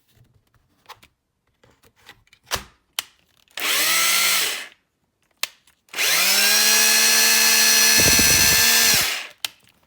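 Hitachi 24V cordless drill motor run twice after a few handling clicks: a short burst of about a second, then a longer run of about three seconds. Each spins up in pitch and winds down, with some rattling near the end of the second run. These are trial runs of the repaired drill.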